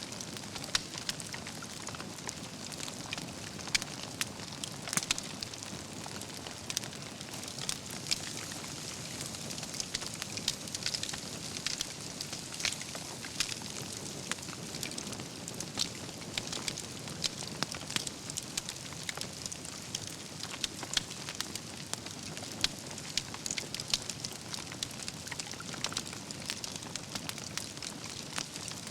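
Wood fire burning steadily, logs crackling with frequent irregular sharp pops over a soft steady hiss.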